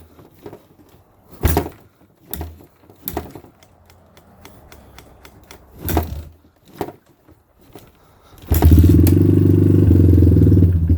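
Suzuki LT230S quad's single-cylinder four-stroke engine being kick-started on full choke in freezing cold: several separate kicks and brief sputters, then about eight seconds in it fires and runs loudly for a couple of seconds before it falters. It is a hard cold start: the engine keeps almost catching but will not yet hold an idle.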